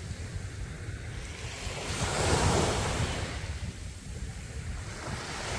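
Sea waves washing onto a beach, one wave surging louder about two seconds in, with wind rumbling on the microphone.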